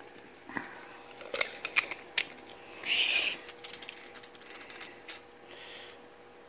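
A series of small clicks and knocks from objects being handled, with a short scraping rasp about three seconds in and a fainter one near the end.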